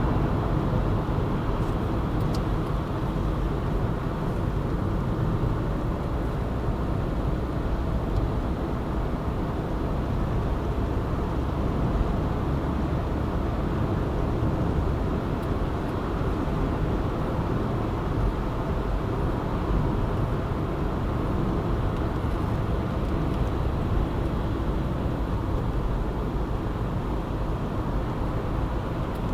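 A car cruising at an even speed, with a steady rumble of tyres on the road and the engine that neither rises nor falls.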